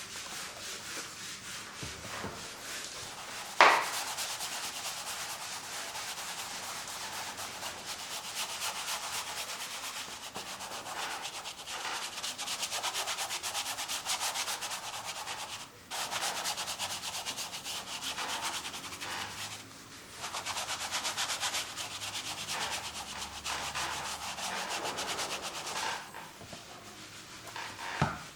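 Acrylic paint being spread across a canvas: a continuous scratchy rubbing of the painting tool over the canvas surface, in long strokes broken by a few short pauses. A single sharp knock sounds about three and a half seconds in, and another near the end.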